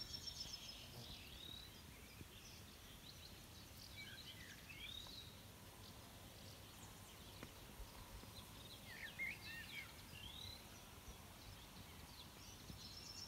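Near silence, with faint birds chirping now and then: short curving calls, a few around four to five seconds in and a cluster around nine to ten seconds in.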